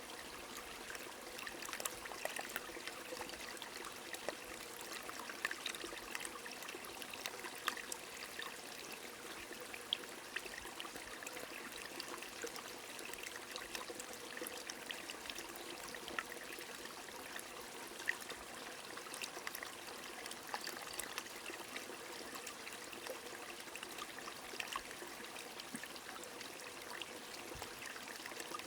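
A stream running steadily with rain falling, the individual drops heard as many scattered small ticks over the even rush of water.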